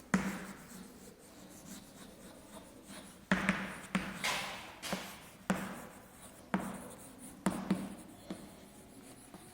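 Writing on a board: a run of separate scratchy strokes, sparse for the first three seconds and then about one a second.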